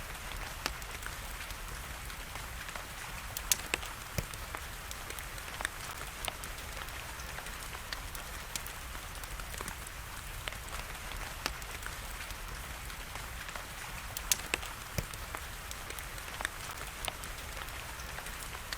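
Wood fire crackling, with irregular sharp pops and a few louder snaps, over a steady hiss of rain.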